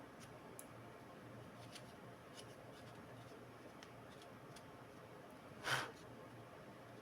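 Quiet handling of small parts on a workbench: faint scattered clicks and taps, with one short, louder scrape or rustle near the end, over a low steady hum.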